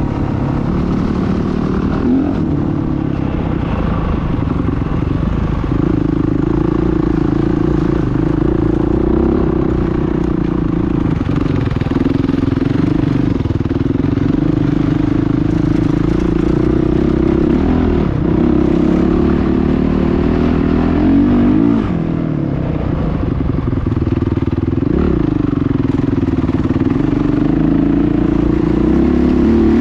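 Motocross bike engine running hard and continuously, its pitch dipping and climbing again several times as the throttle is eased and reopened or gears change.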